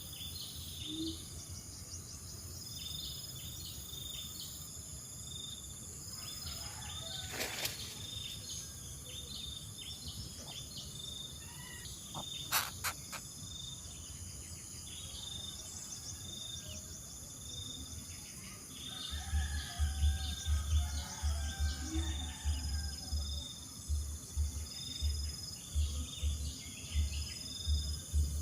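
Outdoor ambience of insects: a steady high trill with short high chirps repeating about once a second, and a few faint bird calls. About two-thirds of the way in, irregular low rumbling thumps begin and become the loudest sound.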